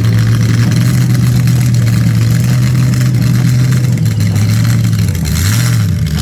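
A vehicle engine running steadily at one pitch. Near the end the pitch drops and comes back up, twice.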